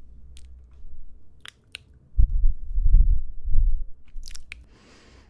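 Close-miked ASMR chewing of fruit: a few wet mouth clicks, then deep, muffled chewing thuds for about a second and a half, and a soft hiss near the end.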